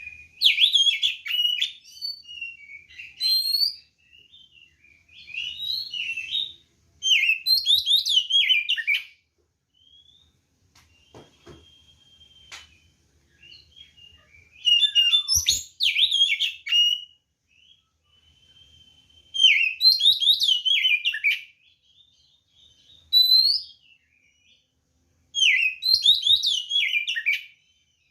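Oriental magpie-robin (kacer) singing in its loud fighting song: bursts of fast, varied whistles and chatter, each a second or two long, with short pauses between them and a few long thin whistled notes in the gaps.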